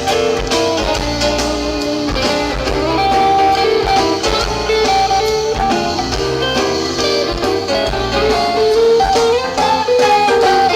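Live rock band playing an instrumental passage with no singing: an electric guitar lead of held and sliding notes over bass and drums.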